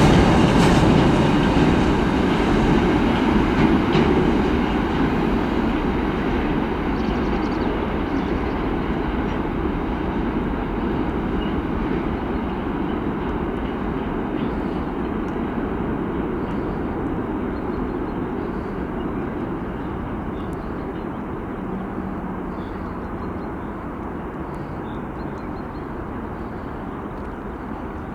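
Freight train wagons rolling past on the rails, a steady rumble that fades away gradually as the train recedes.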